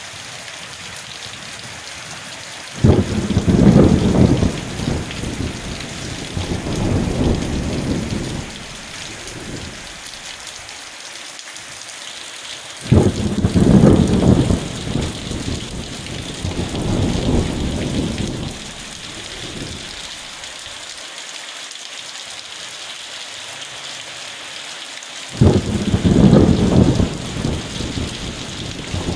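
Steady heavy rain falling. Three rolls of thunder break out suddenly, about ten seconds apart, and each rumbles on for several seconds.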